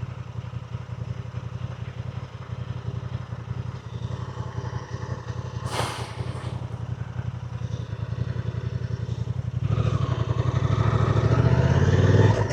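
Motorcycle engine running under way on the road, its steady hum growing louder about ten seconds in as it picks up speed, with a brief drop just before the end. A short whoosh about six seconds in.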